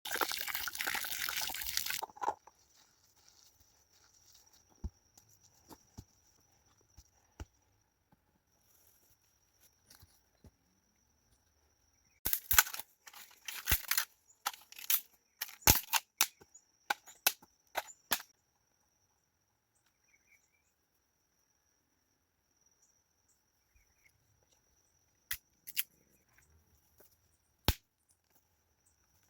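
Campfire wood crackling, with sharp irregular pops that come in a dense flurry about halfway through and a few single pops near the end. It opens with about two seconds of loud rushing noise, and a faint steady high tone runs underneath.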